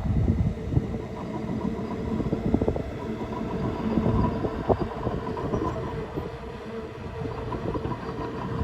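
Komatsu D20A crawler bulldozer's diesel engine running steadily, with the rattling clatter of its steel tracks as it works.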